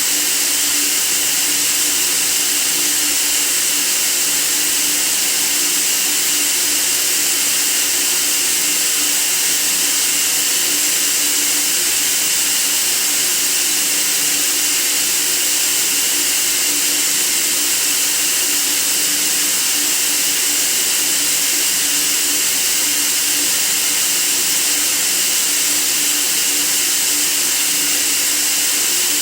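Steady white noise for sleep: an unbroken, even hiss, brightest in the high treble, with a faint low hum beneath it.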